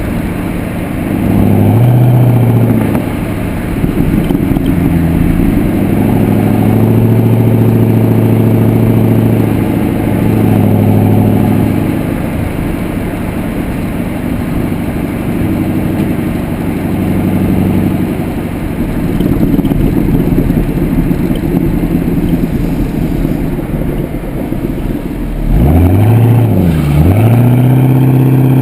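Pontiac G8 GXP's 6.2-litre LS3 V8 exhaust note through an aftermarket Corsa exhaust, picked up at the rear of the moving car. The note swells under throttle early on, holds steady for a stretch, then near the end the revs rise and fall quickly twice before settling into a steady, higher drone.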